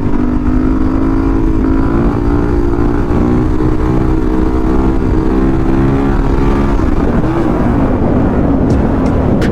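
Motorcycle engine running at a steady cruising speed, with wind rumble on the microphone. The engine note holds even, then wavers up and down a little near the end.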